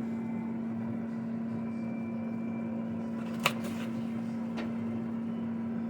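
Steady electrical hum of a kitchen appliance, with a sharp tap about three and a half seconds in and a fainter tap about a second later.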